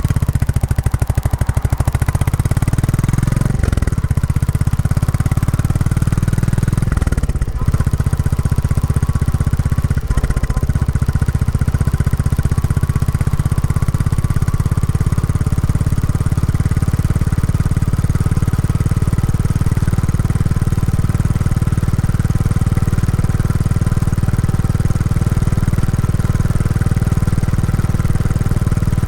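Royal Enfield Classic 350's single-cylinder engine running through its stock exhaust on a ride, the engine still being run in. The engine note breaks briefly three times in the first ten seconds, then holds steady.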